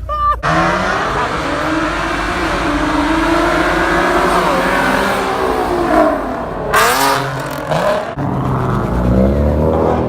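Car engine revving at a car meet, its pitch slowly rising and falling over several seconds, with a brief loud hiss about seven seconds in. The sound cuts off abruptly about eight seconds in, and another engine runs on after it.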